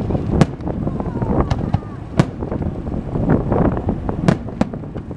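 Aerial fireworks exploding: about six sharp bangs at uneven intervals, over a steady low rumble.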